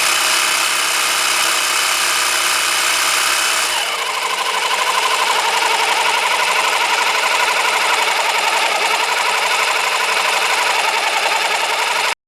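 Cordless-drill electric motor whirring steadily as it drives a scale model engine's pistons through a drive shaft, with a wavering whine. The sound changes about four seconds in and cuts off suddenly near the end.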